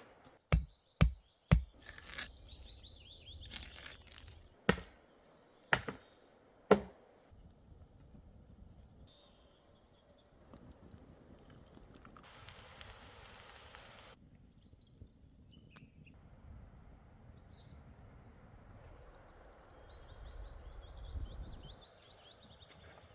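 Six sharp knocks or cracks, three about half a second apart, then three about a second apart. After them, forest ambience with birds chirping now and then, and a brief burst of rustling hiss about halfway through.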